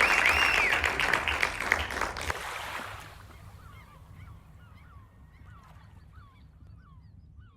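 Audience applause fading out over the first three seconds, with gull cries laid over it: repeated arched calls, then a faint string of short calls that carries on after the clapping stops.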